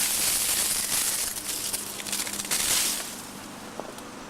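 Rustling and crackling of dying cucumber vines and leaves being pushed aside by hand, stopping about three seconds in.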